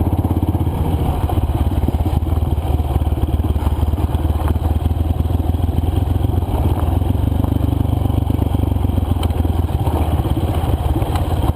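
Honda CRF230 dirt bike's single-cylinder four-stroke engine running steadily at low trail speed, with occasional clatter of loose rocks under the tyres.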